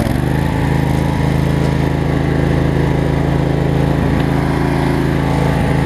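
Riding lawn mower's two-cylinder Briggs & Stratton Vanguard engine running steadily as the mower drives along, held below full speed.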